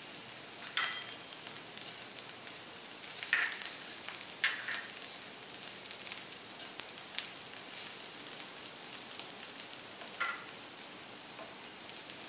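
Browned onions and whole spices sizzling steadily in hot oil in a wide pan, with a few sharp metallic clinks of stirring against the pan.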